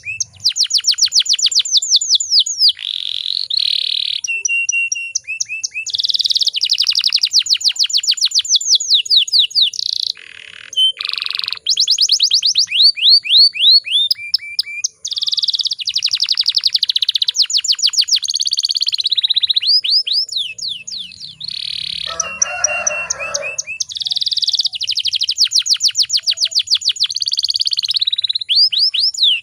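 Domestic canary singing continuously, in fast trills and rolls of rapidly repeated sweeping notes broken by short held tones. About two-thirds of the way through there is a brief harsh, noisy rasp.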